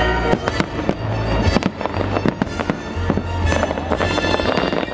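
Aerial fireworks bursting in a quick series of bangs and crackles, with show music playing underneath.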